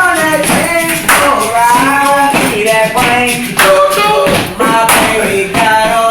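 Music: a voice singing a melody of held, sliding notes over a sharp clap-like beat.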